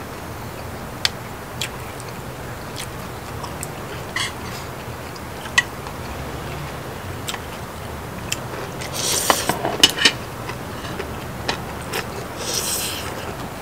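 Close-miked eating: scattered sharp clicks of utensils against a dish, with chewing. Two short, louder stretches of mouth noise come about nine seconds and twelve and a half seconds in.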